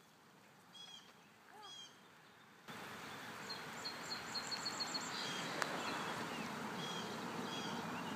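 Small birds chirping faintly, with a quick run of short high notes about three and a half seconds in. A steady hiss of background noise comes in suddenly just before that.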